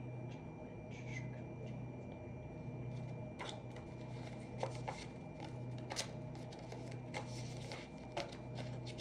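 Scattered light taps and clicks, irregular and close together, with a few sharper ones, over a steady low room hum.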